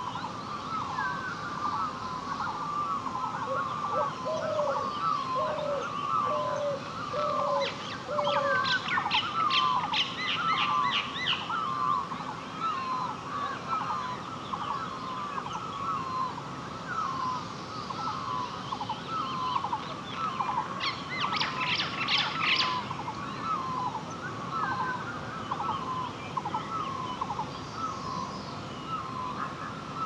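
Birds calling from a forest. One bird repeats a short call about once a second throughout, a lower five-note series comes in a few seconds in, and rapid high trills break out twice.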